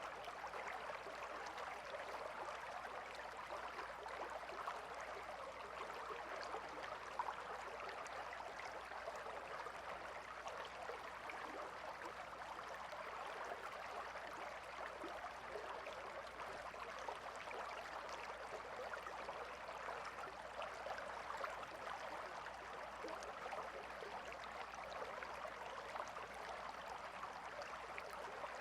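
Calm river water flowing steadily, an even rush of running water that stays the same throughout.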